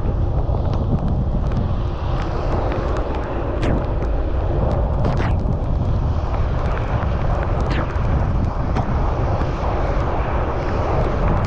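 Steady rush of wind buffeting a bicycle rider's camera microphone, with scattered sharp clicks breaking through.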